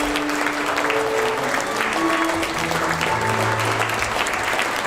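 Audience applauding steadily over background music with slow, held notes and a low bass line.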